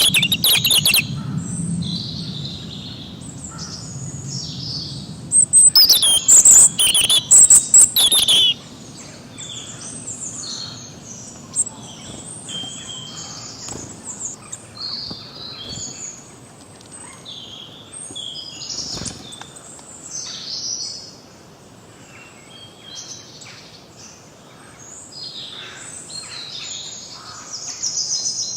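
Several songbirds singing and chirping together in a dawn-chorus mix of short calls and trills. A loud, rapid song rings out at the start and again about six seconds in.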